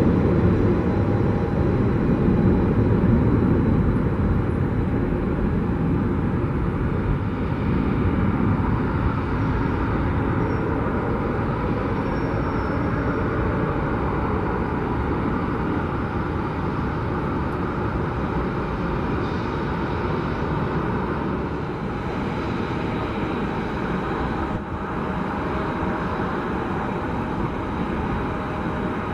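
Boeing 737-700's CFM56 jet engines running steadily at low power, a continuous rumble with a faint high whine.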